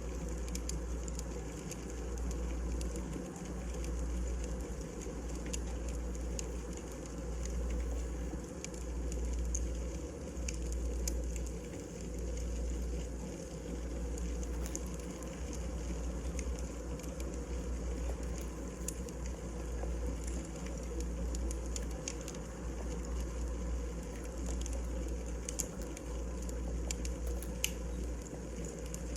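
Wood fire burning, with irregular small crackles and pops over a steady low rumble.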